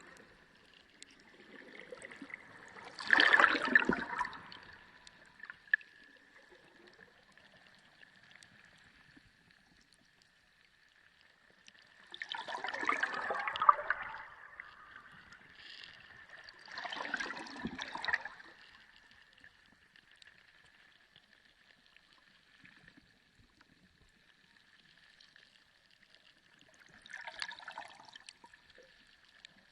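Sea water sloshing and gurgling in four irregular surges, with quiet stretches between them. A faint steady high tone runs underneath.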